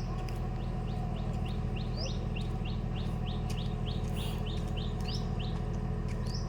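A small bird chirping: a rapid series of short, high rising chirps, about three a second, broken by a few longer, higher rising notes. A steady low hum runs underneath.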